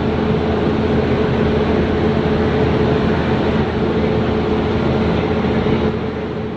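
Passenger train rolling past, a dense steady rumble with a steady hum running under it.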